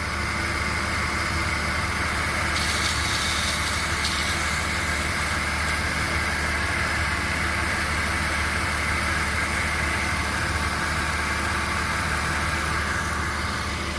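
Porsche Boxster 2.7 flat-six idling steadily, with a constant high-pitched tone from the serpentine belt area, which the owner suspects comes from the power steering pump or the AC compressor.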